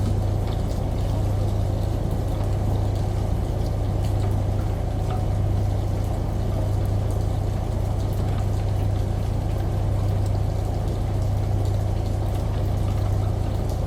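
Steady low hum of a washing machine under a constant rush of running water, with faint scattered ticks like drops.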